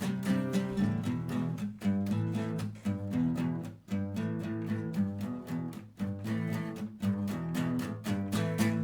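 Acoustic guitar strummed in a steady rhythm, playing chords in an instrumental passage of a song, without singing.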